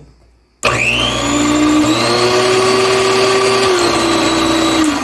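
Mallory food processor's electric motor switched on about half a second in, whining up to speed quickly and then running steadily for about four seconds before it is switched off near the end. It is the test run after a repair to the lid safety-lock wiring, and the motor runs.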